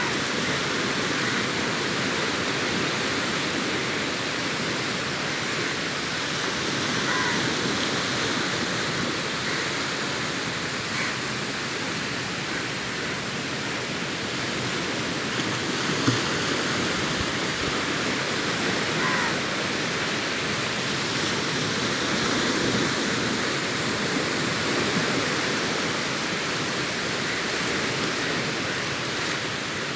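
Sea waves breaking and washing up the beach: a continuous rushing surf whose level swells and eases slowly every several seconds.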